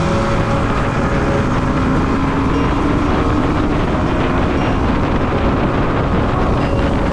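Motorcycle running steadily at speed, heard from onboard with wind rushing over the microphone.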